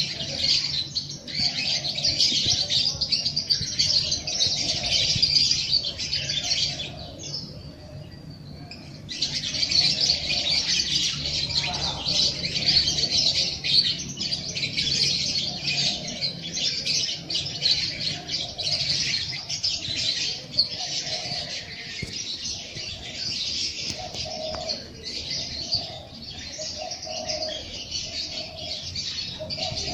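A dense chorus of small songbirds chirping continuously. It falls away for about two seconds partway through, then resumes. Lower repeated calls sound underneath, most clearly near the end.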